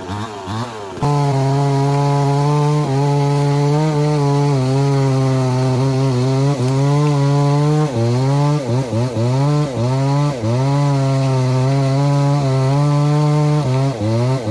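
Large Stihl MS 070 two-stroke chainsaw blipping its throttle for about a second, then held at full revs through a cut in wood, with several brief dips in engine speed as the bar loads and eases.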